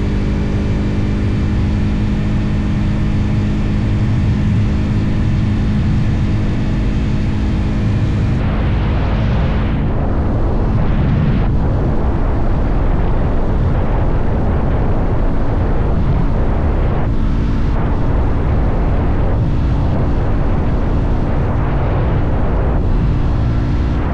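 Motorcycle engine running steadily at cruising speed, with wind rushing over the microphone that grows louder about a third of the way in.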